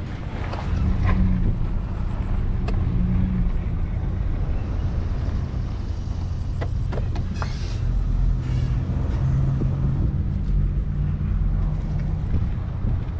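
Vehicle engine running at low speed while backing up with a trailer, with a few short knocks and rattles.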